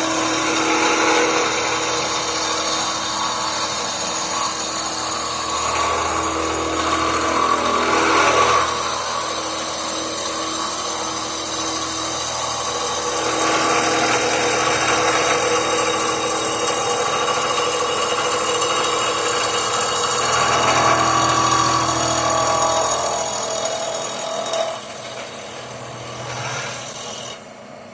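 Electric hand grinder running under load against a cast iron exhaust manifold, dressing down the high spots of the weld, its pitch shifting as pressure changes. It eases off and stops near the end.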